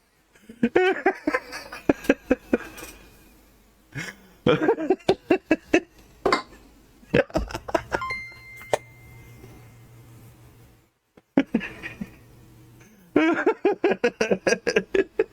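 People laughing in fits of quick repeated vocal sounds, three times over, while reacting with disgust to eating crickets.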